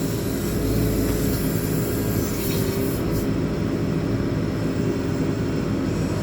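Diesel engine of a JCB 4CX backhoe loader running steadily while the machine works.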